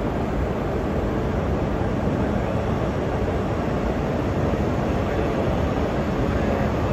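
E6 series Komachi Shinkansen trainset rolling slowly along the platform at creeping speed with its nose open and the coupler exposed, moving in to couple with an E5 series Hayabusa; a steady low rumble with no sharp events.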